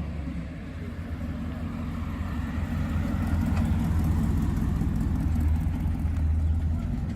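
A car engine idling with a steady low rumble, growing slightly louder midway.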